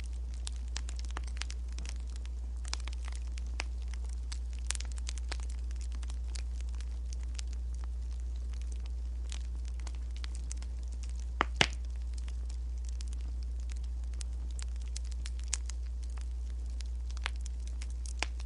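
Wood fire crackling: scattered sharp pops and snaps, with a louder pair of pops about eleven and a half seconds in, over a steady low hum.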